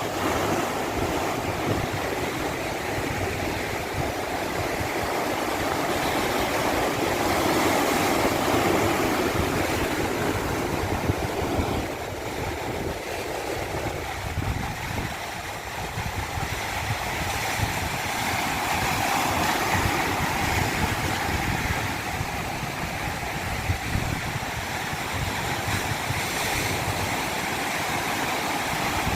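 Continuous rushing water with no other sounds, swelling and easing slowly over several seconds.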